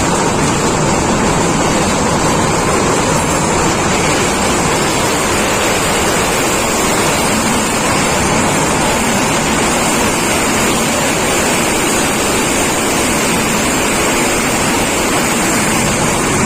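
Passenger train running at speed: a steady rushing of wind and wheel-on-rail noise.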